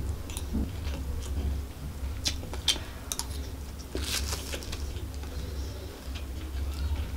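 Close-miked chewing of a mouthful of fried rice, with small wet crackly clicks from the mouth. About four seconds in, a metal spoon scrapes and scoops through the rice, over a steady low hum.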